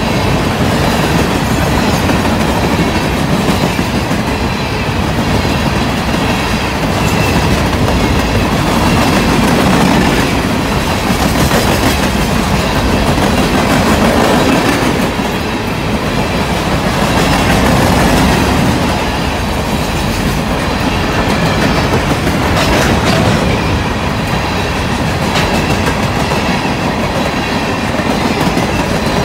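Ballast hopper cars of a freight train rolling past at close range. Steel wheels run on the rail with a steady loud rumble and repeated clicking, and the level swells and eases every few seconds as trucks pass.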